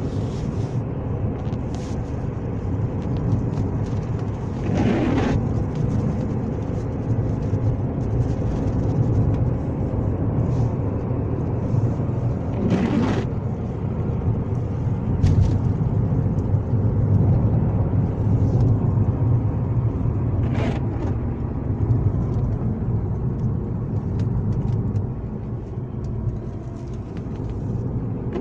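Alfa Romeo 916 Spider's 2.0 Twin Spark four-cylinder engine running with a steady low drone. Four brief swishes come about eight seconds apart.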